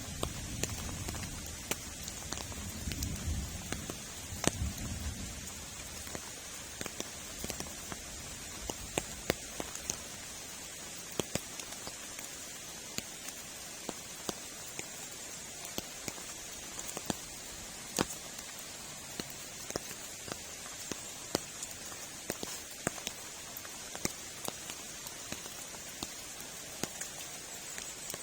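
Steady rain falling, a constant hiss with scattered sharp drip and drop impacts, with some low rumbling in the first few seconds.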